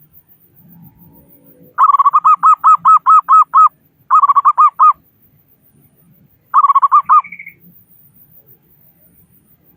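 Local zebra dove (perkutut) cooing in three phrases of quick, staccato hooked coos. The first phrase runs about two seconds, the second is shorter, and the third is a brief rapid burst that ends on a higher note.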